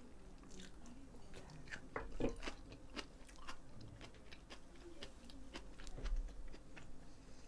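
A person chewing a mouthful of food, with faint wet mouth clicks scattered throughout and slightly louder ones about two seconds and six seconds in.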